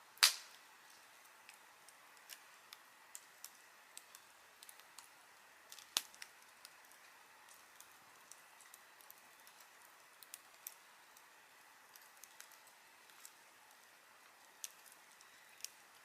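Wood fire crackling: scattered sharp pops and snaps over a faint steady hiss, with a loud pop right at the start and another about six seconds in.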